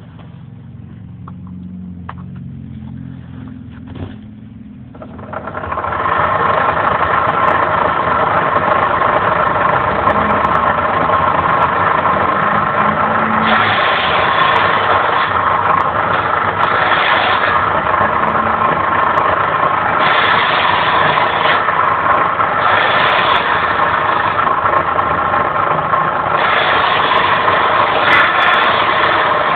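Homemade belt-driven circular saw powered by an old BCN water-pump electric motor (about 2800 rpm), starting up about five seconds in and then running steadily with a pitched hum and whine. Several times it turns harsher and louder for a second or two at a time.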